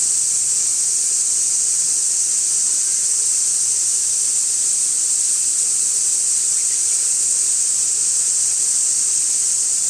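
Chorus of cicadas (semi-shigure), a loud, steady, unbroken high-pitched buzzing drone.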